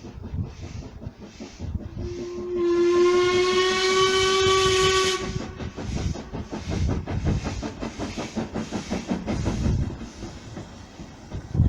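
Ivatt Class 2MT 2-6-0 steam locomotive working under steam, its exhaust beating evenly at about two to three beats a second. A single steady whistle blast of about three seconds sounds about two seconds in.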